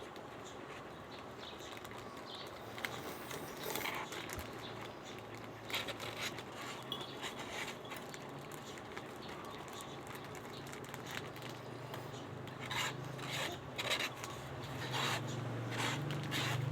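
Scattered light taps, clicks and rustles of small objects being handled, more frequent near the end, over a low steady hum.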